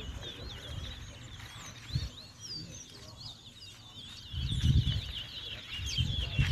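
Caged towa-towa finches (chestnut-bellied seed finches) singing in a competition match: a rapid run of high chirps and twittering whistles, growing denser near the end. Low rumbles hit the microphone about four and a half seconds in and again after six seconds.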